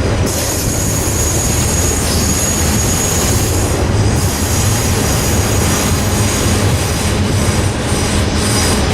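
A long cut of freight cars being shoved backwards, rolling past with a steady low rumble of steel wheels on rail. High-pitched wheel squeal sounds for the first three or four seconds, then comes and goes in short bits near the end.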